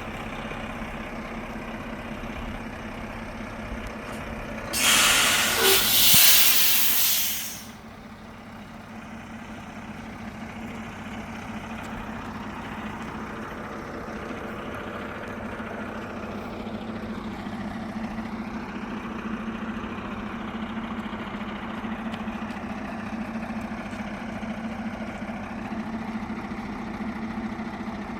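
Truck engine running steadily, with a loud hiss of air brakes about five seconds in that lasts a couple of seconds.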